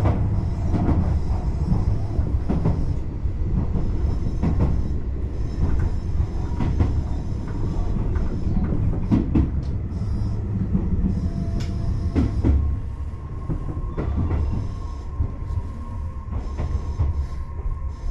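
Electric commuter train heard from inside the car as it brakes into a station: a steady low rumble with wheels clicking over rail joints and points. The noise eases as it slows, and a thin steady whine comes in about two-thirds of the way through.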